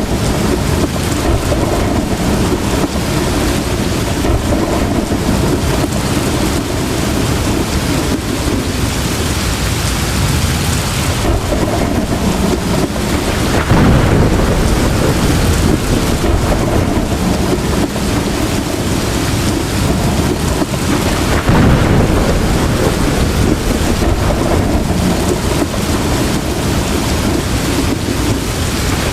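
Heavy rain pouring steadily in a thunderstorm, with low rolling thunder under it that swells louder twice, about halfway and about three-quarters of the way through.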